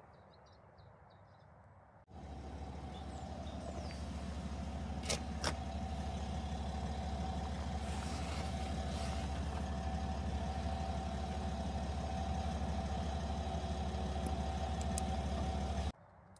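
A motor running with a steady low hum, starting abruptly about two seconds in and cutting off sharply near the end, with two sharp clicks about five seconds in.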